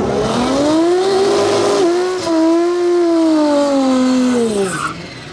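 A rear-wheel-drive drag racing car making a pass: the engine note climbs hard off the line, dips briefly at a gear change about two seconds in, then holds and sinks steadily as the car pulls away down the track.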